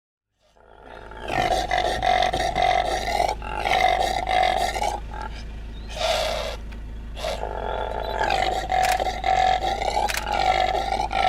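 Impala calling: a long run of hoarse, grunting roars, each rising and falling in pitch, with short breaks between them, starting about half a second in. One call near the middle is a breathier snort. These are the rutting roars of a territorial male impala.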